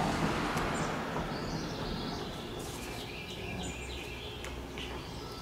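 A songbird chirping in the background: a quick run of repeated short high notes around the middle, over low hiss and a few faint clicks.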